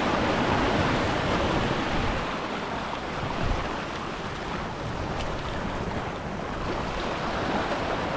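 Sea waves washing against a rocky shore, with wind on the microphone.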